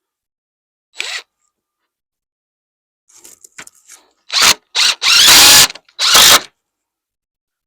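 A power drill driving fasteners into wooden framing, run in short squeezes of the trigger: one brief burst about a second in, a few light touches, then four firmer runs in quick succession, the longest under a second.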